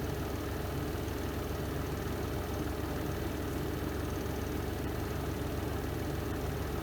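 The spin drum of a Renova semi-automatic twin-tub washing machine spinning: a steady, unbroken low motor hum.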